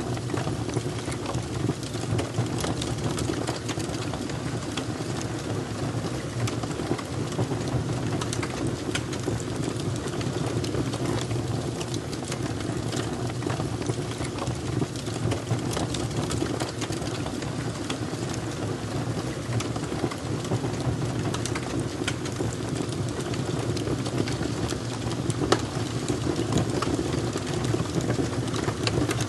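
Fire crackling: frequent small sharp pops and snaps over a steady low rumble.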